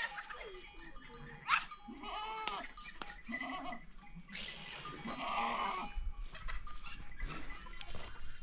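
Goats bleating, several short calls one after another from different animals.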